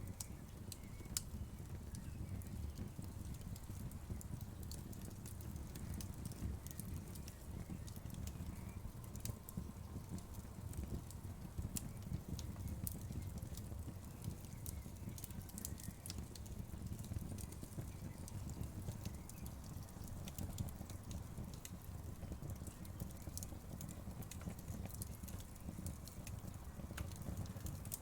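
Wood fire crackling: irregular sharp pops and snaps of the burning wood over a steady low rumble of the flames.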